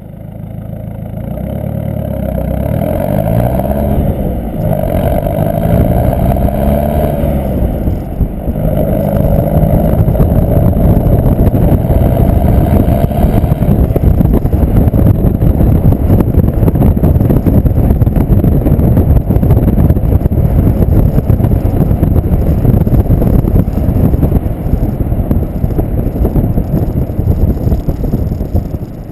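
Ford Fiesta TDCi turbo-diesel engine, straight-piped with the catalytic converter removed, accelerating: its pitch rises and falls several times over the first several seconds, then it settles into a loud, steady drone that eases off near the end.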